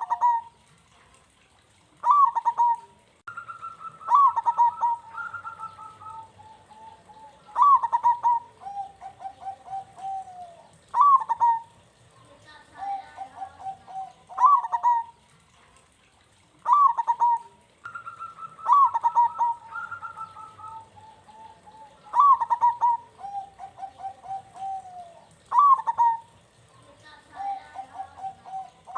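Zebra dove (perkutut) song: repeated phrases every few seconds, each a sharp opening note followed by a rapid string of short cooing notes. It is played as a bait recording to set other perkutut singing.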